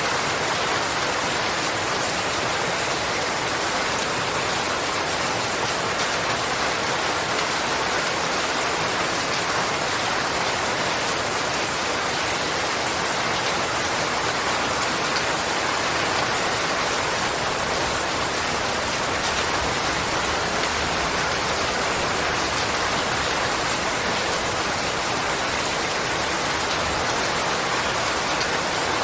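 Steady heavy rain falling, an even dense hiss of drops on surfaces.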